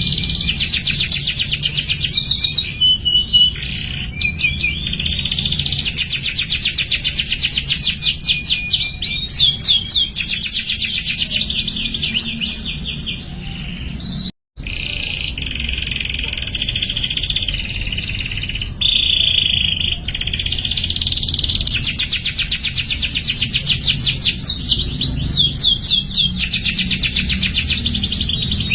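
Domestic canary singing a long, loud song of fast trills and rolls, high notes repeated many times a second in runs of a few seconds each. The sound cuts out for an instant about halfway through.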